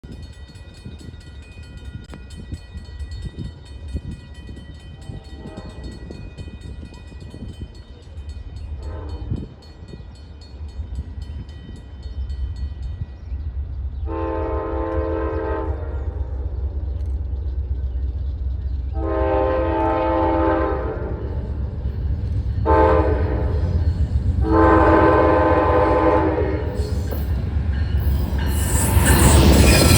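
Train horn sounding the grade-crossing pattern of two long blasts, a short and a long as a train approaches. A low rumble builds under it and rises to a loud rush as the train passes near the end.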